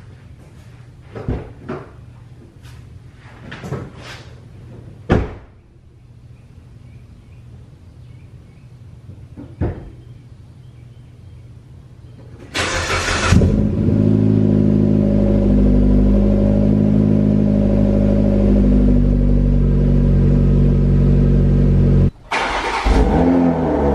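A few short clicks and knocks, then about twelve seconds in a Mitsubishi Lancer's engine cranks, fires and settles into a steady idle. Near the end the sound cuts out abruptly and a second engine start follows.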